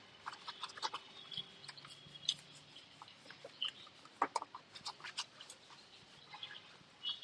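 Soft cloth wiping a laptop's freshly sprayed case: a run of short squeaks and rubbing clicks.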